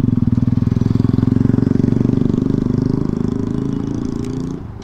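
Motorcycle engine running under way with a rapid, even beat of exhaust pulses. Over the last couple of seconds its pitch and loudness fall as the bike slows down.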